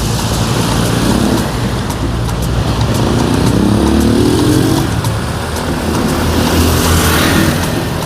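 City street traffic: a motor vehicle's engine rising in pitch as it accelerates past a few seconds in, over a steady background of traffic noise, with another vehicle passing near the end.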